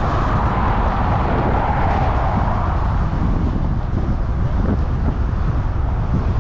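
Wind buffeting the microphone while cycling: a loud, steady rumble, with a brighter rush in the first two or three seconds.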